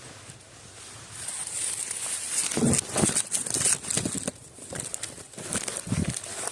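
Footsteps crunching and rustling over dry ground, with a few dull thumps, starting about a second in.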